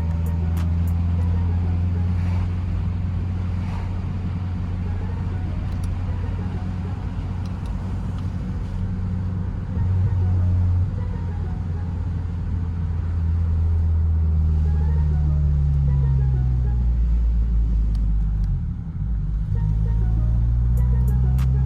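Honda Civic engine and exhaust running steadily at a low drone. About two-thirds of the way through, the pitch drops away, briefly dips, and then climbs again as the revs come back up.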